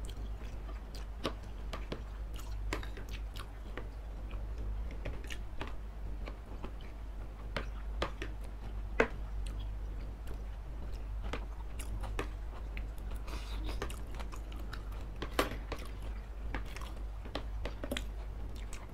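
Mouth sounds of people chewing soft food in sauce, with frequent short clicks and scrapes of metal spoons and forks against a baking dish. The sharpest click comes about nine seconds in.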